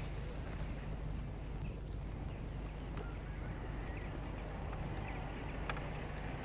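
Quiet rural outdoor ambience: a steady low rumble with a few faint, scattered bird chirps.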